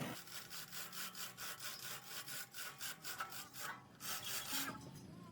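Hand sawing with rapid back-and-forth strokes, about four to five a second, then a brief pause and one longer stroke near the end.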